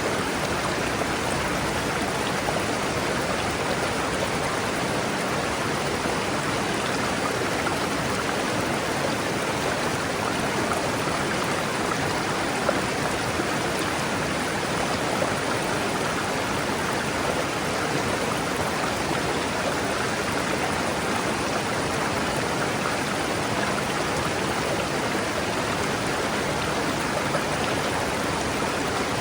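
A forest river rushing steadily over rocks, a continuous even flow of water.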